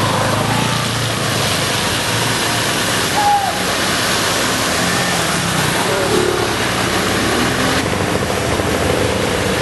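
Steady rushing noise of floodwater, with faint distant voices.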